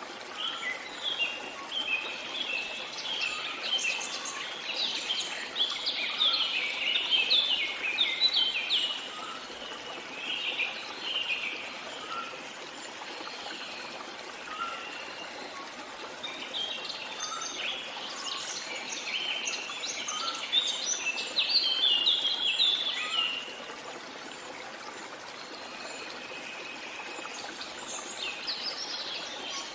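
Songbirds chirping and singing in two long, busy bouts, over the steady rush of a stream of running water.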